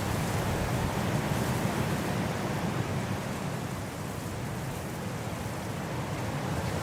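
Steady wind noise, a low, even rushing that eases a little about halfway through and then builds again.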